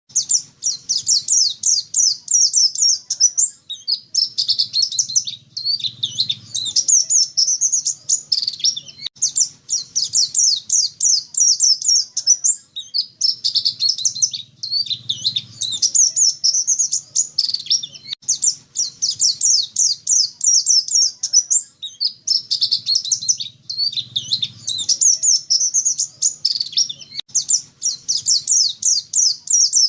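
Pleci dakun white-eye singing a long, rapid twittering song of high chirps, delivered in phrases of a few seconds separated by brief pauses.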